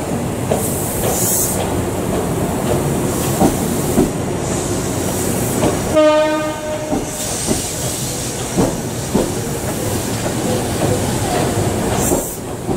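Tobu 10050-type electric train rolling past, its wheels clacking over the rail joints again and again. A short horn blast sounds about six seconds in.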